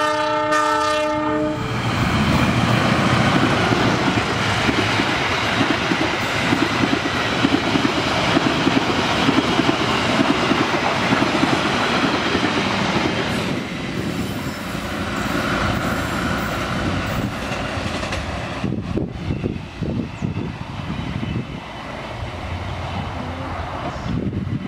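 A train horn sounds with several tones at once and cuts off about a second and a half in. It is followed by a passenger train passing close by, its wheels clattering rapidly over the rail joints, the noise easing over the last several seconds.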